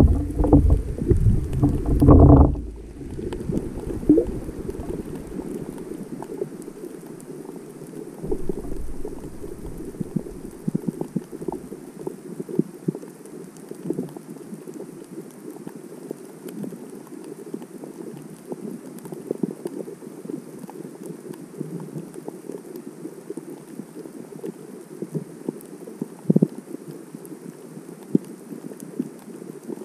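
Sea heard underwater through a GoPro in its housing: a loud muffled rumbling and rushing for the first couple of seconds, then a steady muffled wash of water with many small scattered crackles and clicks.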